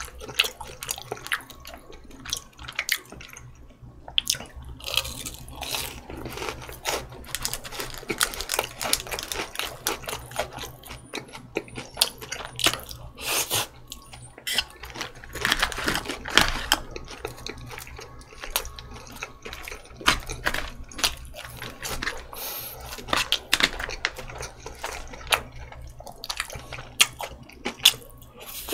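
Close-miked eating: a man chewing pork cutlet, rice and shredded cabbage, with many short wet mouth clicks and smacks.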